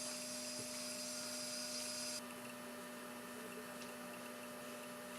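Faint steady electrical hum with a light hiss, the hiss dropping a little about two seconds in.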